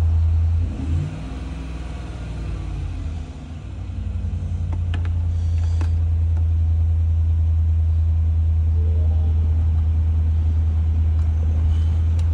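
Low, steady rumble of a Chevy Tahoe idling, heard from inside the cab. It sags about a second in, comes back up over the next couple of seconds, then holds steady.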